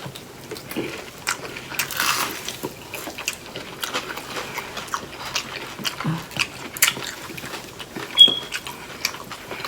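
Close-up crunching and chewing of fried, breaded onion rings: irregular crisp crackles and clicks, with one short high-pitched ping about eight seconds in.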